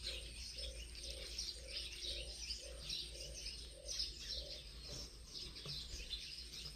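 Small birds chirping and twittering continuously, with a lower call repeating about twice a second through the first few seconds.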